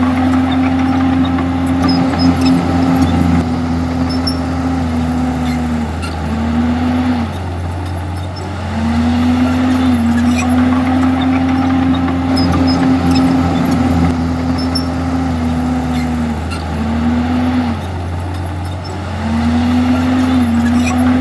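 Komatsu D51EX bulldozer's diesel engine running steadily at high revs. Twice, about six and sixteen seconds in, the revs sag and it goes quieter for a couple of seconds before rising back.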